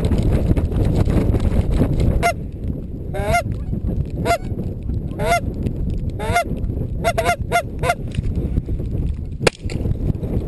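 Goose honks about once a second, then a quick run of shorter clucking calls, over heavy wind buffeting the microphone. A single sharp crack sounds near the end.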